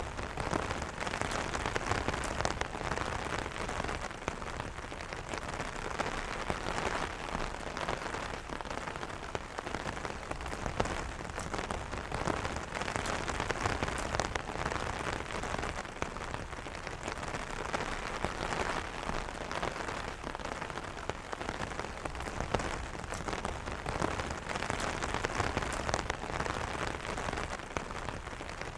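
Steady rain pattering on an umbrella canopy, a dense hiss of drops with many small individual taps.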